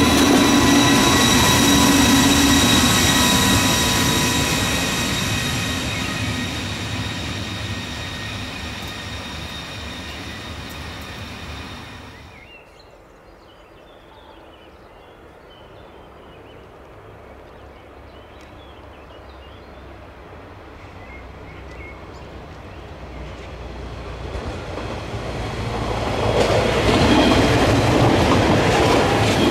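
A double-deck S-Bahn train runs past on the track with a steady whine over its running noise, fading away over about twelve seconds. After an abrupt cut the sound stays low for a while, then a two-car regional multiple-unit train approaches, and its wheel and running noise grows loud as it passes close in the last few seconds.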